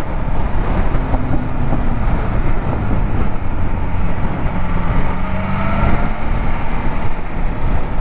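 Wind rushing past a rider's helmet with a motorcycle engine running underneath at road speed; the engine note rises briefly a little past halfway.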